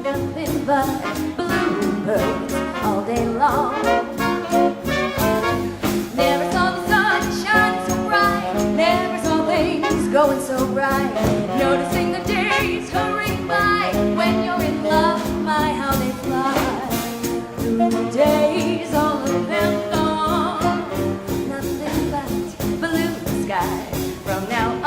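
Live swing band playing a 1940s-style swing number, with horns over a steady dance beat.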